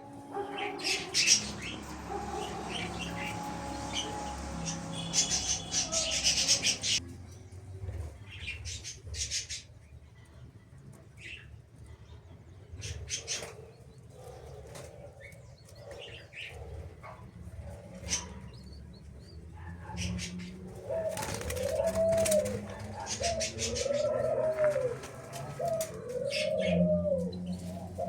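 Mixed aviary birds chirping, with short clicks and rustles. In the second half a low call that rises and falls is repeated four times, about every one and a half to two seconds.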